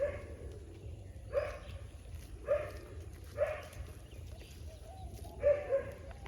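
A dog barking: about five short barks spaced a second or so apart, the last two close together.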